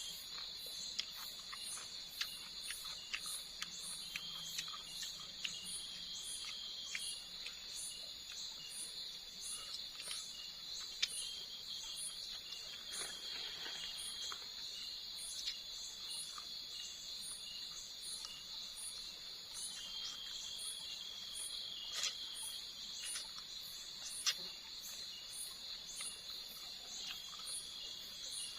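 Night insect chorus: a steady high-pitched drone with a faster chirp repeating about twice a second above it, and a few sharp clicks scattered through.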